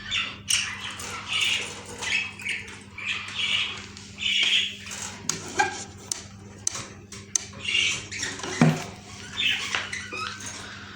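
Budgerigars in cages chattering, with a string of short, high chirps and squawks and a few sharp clicks. A steady low hum runs underneath.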